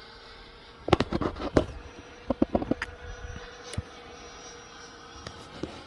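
Faint, steady whine of an RC F-16's 80 mm electric ducted fan in flight at part throttle, with several clusters of sharp clicks, the loudest about a second in.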